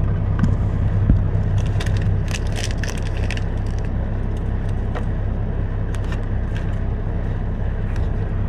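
Steady low hum of an idling semi truck's diesel engine, heard inside the cab, with crinkling and small clicks of food packaging being handled, most of them a couple of seconds in and again in the second half.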